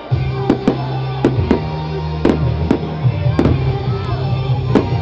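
Fireworks going off in about a dozen sharp bangs at irregular intervals, over loud music with a steady bass line.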